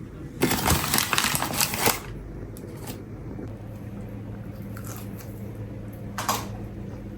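Paper rustling and crinkling, loudest for about a second and a half near the start, with a short second crinkle near the end. A steady low hum comes in about halfway through.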